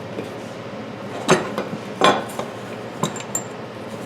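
Metal tools clanking: two sharp metallic knocks, then a few lighter ringing clinks, as a tool is set against a lawn tractor tire to break its bead.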